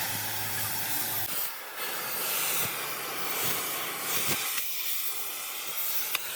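Steady, dense hissing noise, with a low hum underneath for about the first second and a few faint knocks.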